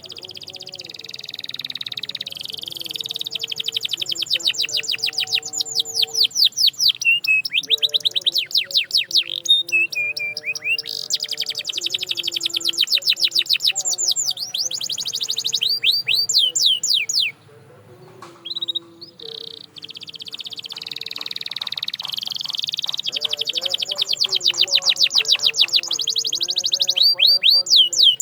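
Domestic canary singing a long, high-pitched song of rolling trills and fast runs of down-slurred notes, with a break of about two seconds a little past the middle.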